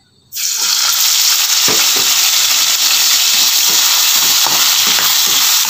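Sliced bell peppers dropped into hot oil in a wok, setting off a sudden, loud, steady sizzle about a third of a second in. From a couple of seconds in, a metal spatula stirs them, knocking and scraping against the pan under the sizzle.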